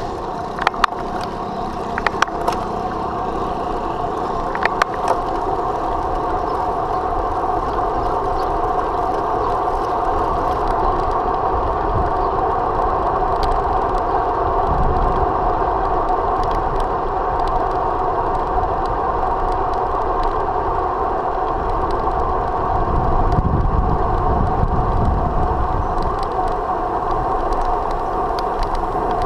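Steady road noise while riding: a low rumble under a constant hum, with a few sharp clicks in the first five seconds.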